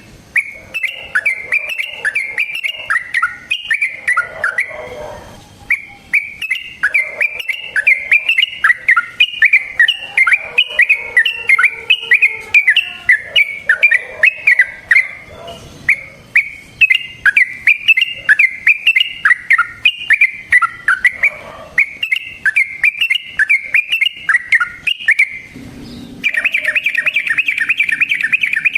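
Yellow-vented bulbul (trucukan) singing long runs of rapid, bubbly chattering notes, broken by short pauses about every ten seconds. Near the end the notes come in a faster, denser run.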